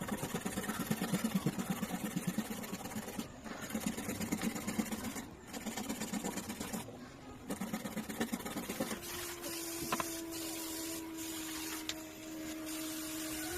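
Small electric motor running in several short clips with abrupt breaks between them, pulsing rapidly, then a steady hum for the last few seconds.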